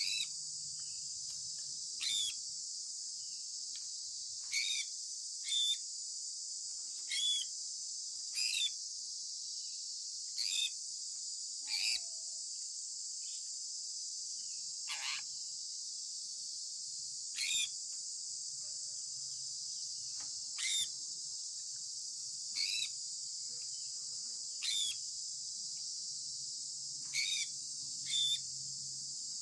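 Sun conure parrot giving short, sharp chirps that sweep downward in pitch, repeated every second or two, over a steady high-pitched hiss.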